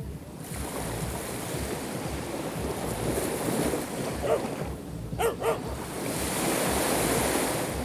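Sea waves washing on the shore, with wind rumbling on the microphone. About halfway through, a dog barks three short times.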